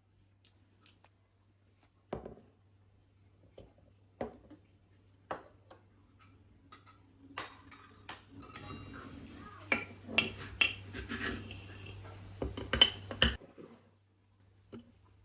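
Kitchen utensils and dishes knocking and clinking: a few separate knocks, then several seconds of busy clattering that stops suddenly.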